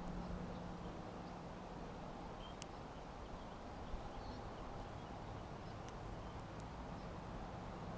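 Faint small songbird chirps at a backyard bird feeder, a few short calls scattered through, with several sharp clicks over a steady low background rumble.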